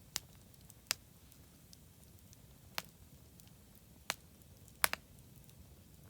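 Wood campfire crackling: six sharp, irregular pops, with a quick double pop about five seconds in, over the low steady hiss of the burning fire.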